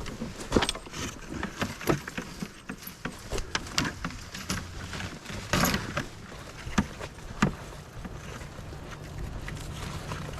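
Footsteps of a person walking over rough ground, an irregular string of scuffs and knocks, with a steadier background sound taking over in the last few seconds.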